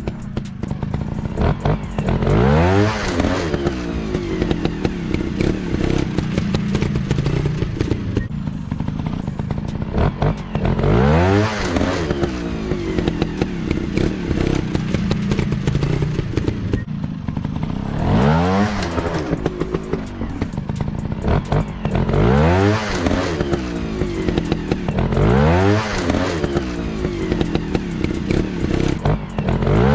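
Off-road motorcycle engines revving hard and dropping back, the pitch rising and falling about six times over a steady running engine, with some clattering.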